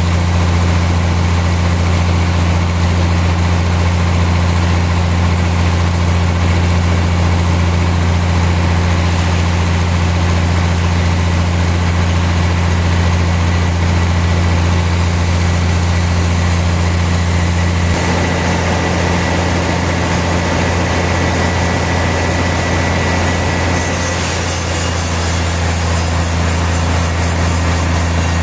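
Sawmill machinery running steadily, with a loud deep engine hum under a dense noise of the mill. The hum changes tone about two-thirds of the way through, and the high end changes again near the end.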